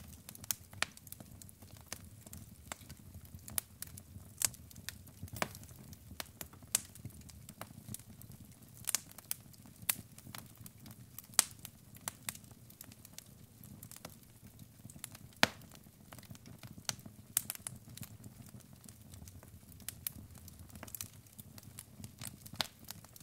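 Wood fire burning in a fireplace: logs crackling with irregular sharp pops, a few much louder than the rest, over a steady low rumble of the flames.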